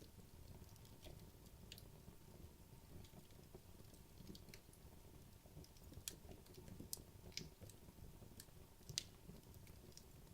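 Wood logs burning in a fireplace, quietly: a soft low rumble of the fire with scattered sharp crackles and pops, the loudest about nine seconds in.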